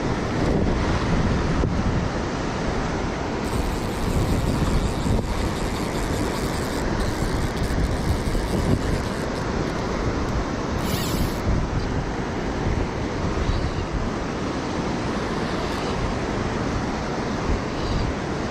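Steady rushing noise of wind buffeting the microphone over flowing river water, heaviest in the low rumble.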